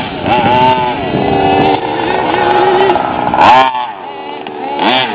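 Nitro RC truck's small two-stroke glow-fuel engine revving, its high pitch rising and falling again and again. A sharp burst of revs about three and a half seconds in drops away quickly, and the revs climb again near the end.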